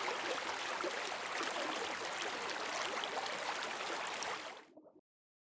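Running water, a steady stream-like rush with fine bubbling crackle, fading out about four and a half seconds in.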